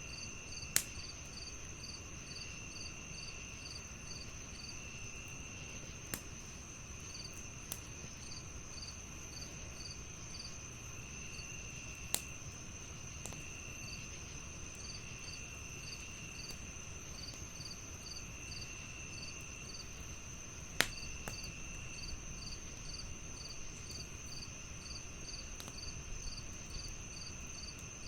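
A chorus of crickets: one steady high trill, a pulsing chirp about twice a second, and a lower trill that comes and goes every second or two. Over it, a log fire crackles with a few sharp pops, the loudest near the start and about two-thirds of the way through.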